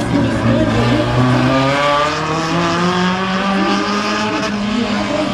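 Race car engine running at the track, its pitch stepping up about two seconds in and then climbing slowly as it gathers revs.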